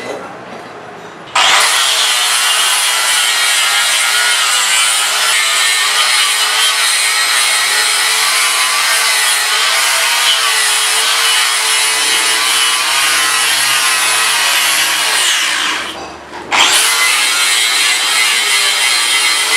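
Power tool running under load on a workpiece, a loud, dense, steady noise with a slightly wavering pitch. It starts suddenly about a second in, dies away and stops near the end, then starts again within half a second.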